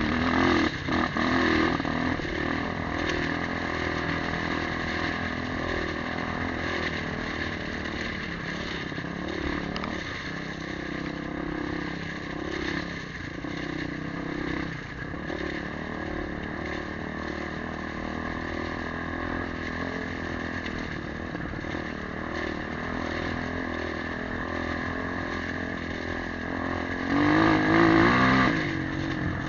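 Motorcycle engine running on the move, its note rising and falling with the throttle. It briefly gets louder near the end, with the pitch dropping.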